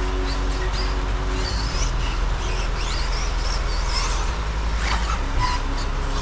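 Electric motor of a 4WD RC racing buggy whining in short rising and falling glides as it speeds up and slows for the corners, over a steady hiss.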